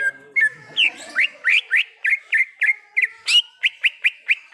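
Cucak ijo (green leafbird) singing a fast run of short, sharp rising notes, about four a second.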